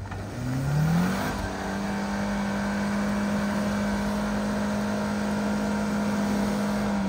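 Suzuki Jimny's 1.5-litre four-cylinder petrol engine revving hard while the mud-bogged SUV tries to drive out of deep mud. Revs climb sharply over the first second, then are held steady at a high, even pitch until they drop near the end.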